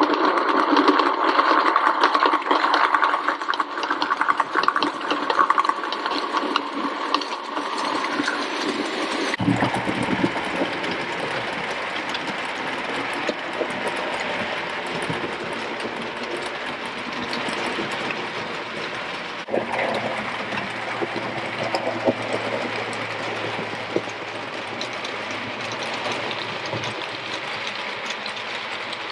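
Model railway locomotives running on track: a small electric motor whirring, with fine clicking from wheels on the rails. The sound changes abruptly about nine seconds in, and again near twenty seconds, when a low steady hum comes in.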